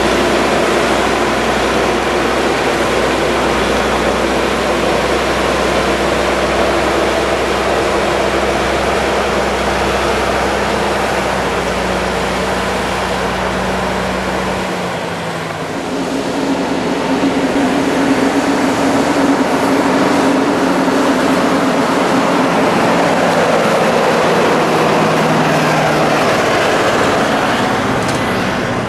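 A heavy engine runs loud and steady. About halfway through, the deep rumble drops away and the engine note shifts to a higher, stronger pitch.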